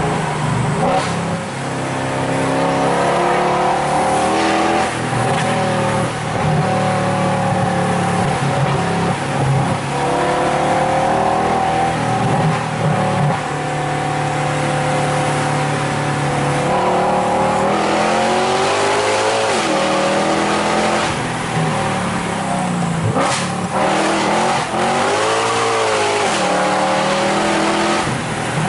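Mercedes-Benz C63 AMG's 6.2-litre V8, heard from inside the cabin through a full Innotech Performance Exhaust, accelerating and changing gear. The engine note climbs and drops repeatedly, with the sharpest swings in the second half.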